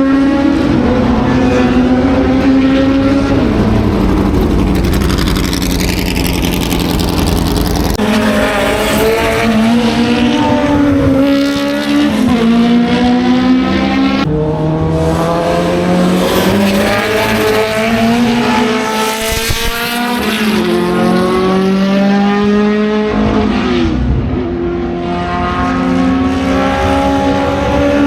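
Historic racing car engines at full throttle, climbing in pitch and dropping sharply through gear changes over and over, with the sound changing abruptly a few times.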